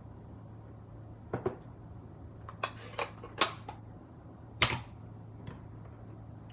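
A scattered series of sharp taps and clicks from stamping supplies being handled and set down on a craft table, about six in all, two of them louder.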